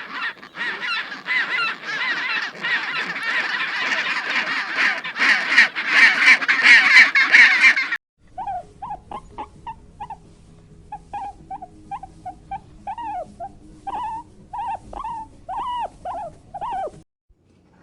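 Poultry calling: a crowded flock's overlapping calls for about eight seconds, growing louder. After a sudden cut come separate short calls, each rising and falling in pitch, a couple a second.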